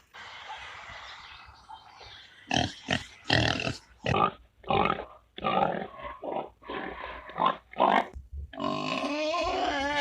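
Pig grunting in a run of short, loud grunts, ending in a longer wavering call near the end.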